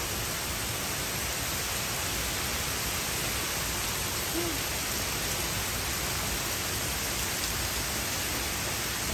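Heavy rain pouring down in a steady downpour: an even, unbroken hiss.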